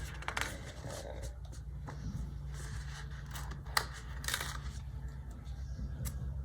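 Paper and sticker sheets being handled on a desk: light rustling and scraping with a few short clicks, over a steady low hum.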